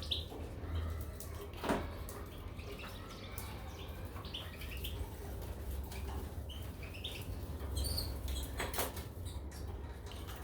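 Caged goldfinches and canaries: short scattered chirps and two brief fluttering sounds over a steady low hum.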